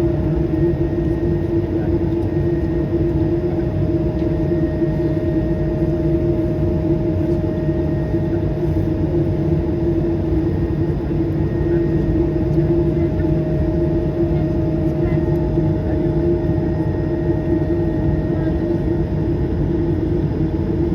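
Cabin noise of an Airbus A220-300: its Pratt & Whitney PW1500G geared turbofans running steadily, heard as a constant low rumble with a steady hum over it.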